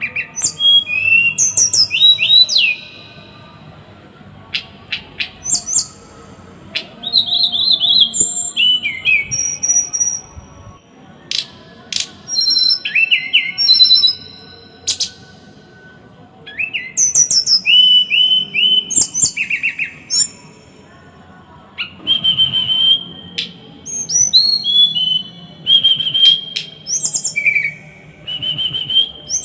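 A small songbird singing in rapid bursts of sharp, high chirps and short trills, phrases a few seconds long broken by brief pauses. This is dense, harsh 'tembakan' song of the kind played to tutor cage songbirds.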